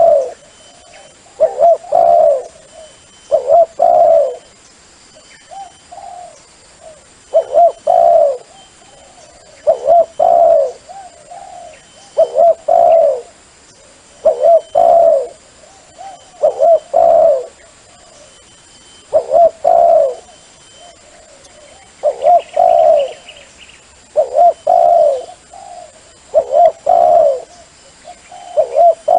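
Dove cooing in repeated two- to three-note phrases, one phrase about every two seconds: a dove call recording played as a lure for decoy trapping.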